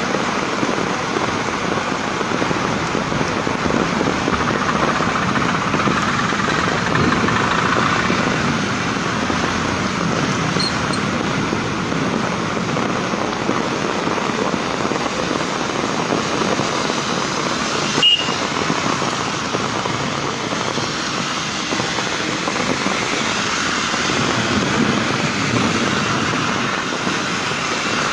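Heavy rain falling steadily on a street, with vehicles swishing past on the wet road and the noise swelling as they go by. A single sharp click about two-thirds of the way through.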